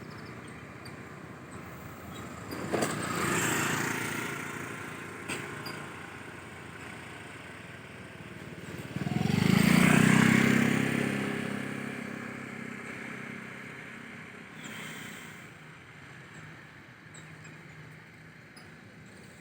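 Road traffic passing: two motor vehicles go by, each engine swelling and fading, the second and louder one about nine seconds in, with its low engine hum drawn out as it passes.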